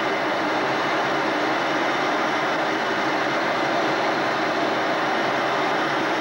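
Steady, unchanging jet aircraft noise, an even rushing sound with no rises, falls or separate events.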